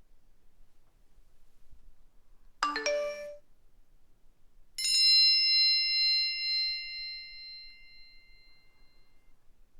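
Two phone alert tones. A quick chime of a few notes comes about two and a half seconds in, then a single bright bell-like ding about five seconds in that rings out slowly for about four seconds.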